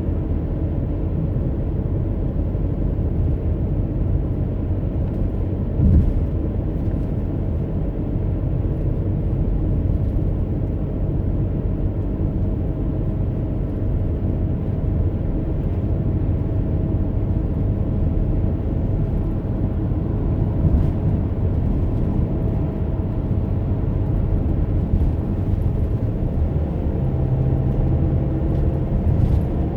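Road and engine noise of a moving car: a steady low rumble, with a few brief thumps.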